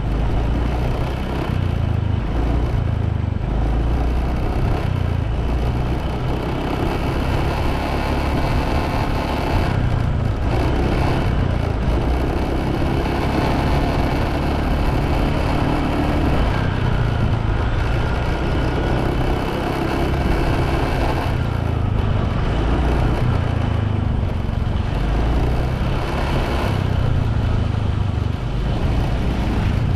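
Motorbike running at road speed during a ride, with a heavy, uneven low rumble under the engine and road noise.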